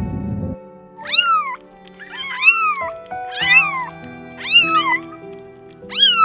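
A cat meowing repeatedly: about six short meows, each rising and then falling in pitch, beginning about a second in. Background music with held notes plays underneath.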